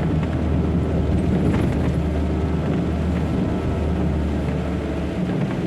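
Truck engine and road noise heard inside the cab while driving: a steady deep drone under a hiss. The deep drone drops away near the end.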